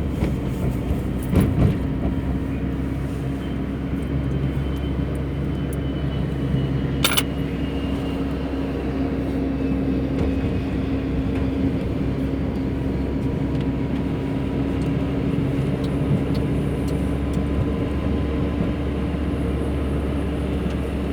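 Steady hum of a car driving, heard from inside, with a constant low drone throughout and a single sharp click about seven seconds in.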